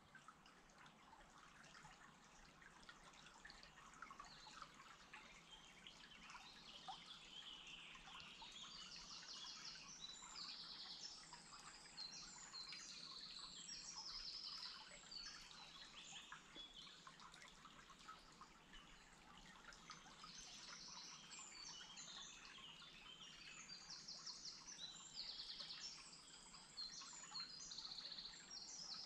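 Songbirds singing faintly in short repeated phrases, some with fast trills, over a soft steady hiss. The singing becomes more frequent after the first several seconds.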